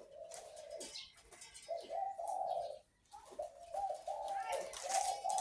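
Caged dove cooing in low, rolling phrases: one in the middle and a longer one running to the end, with sharp high clicks and chirps over it.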